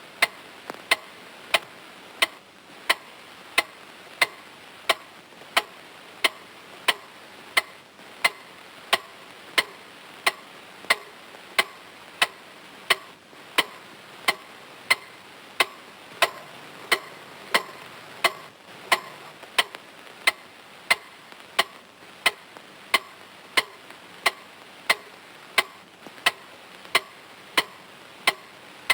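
Steady clock-like ticking, about three ticks every two seconds, each a sharp click with a short pitched ring.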